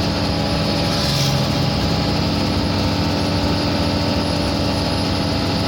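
Sinotruk Howo truck's diesel engine running steadily, with a brief hiss about a second in.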